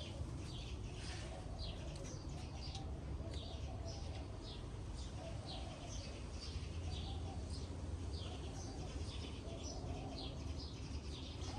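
Birds chirping, short high calls repeating every half second or so, over a steady low rumble.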